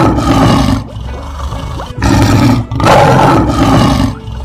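Cartoon lion roar sound effect, heard twice: one roar ends about a second in and another starts about two seconds in. Light children's music plays underneath.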